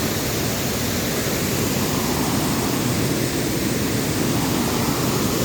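Waterfall rushing: water pouring and splashing, a steady, even roar.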